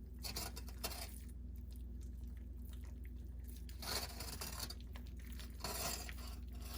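Faint squishing and rustling of raw sausage meat being pressed and rolled by hand, in soft scattered bursts with a longer patch near the end, over a steady low hum.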